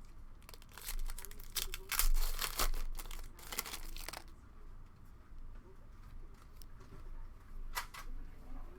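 A foil trading-card pack being torn open and its wrapper crinkled: a quick run of ripping and rustling over the first few seconds, then one more short rustle near the end.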